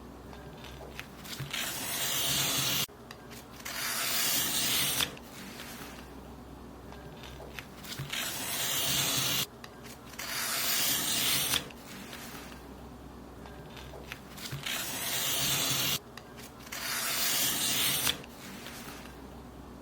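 Paper being cut in long strokes, six or so in turn, each a rasping hiss that grows louder and stops abruptly, with short quiet pauses between.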